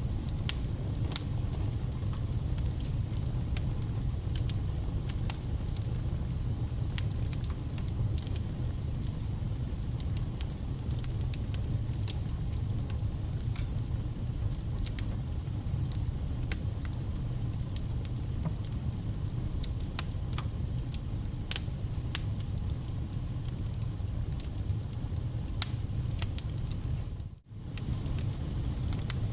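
Campfire of burning firewood: a steady low rumble of flame with frequent sharp crackles and pops from the logs. About 27 seconds in, the sound drops out for an instant.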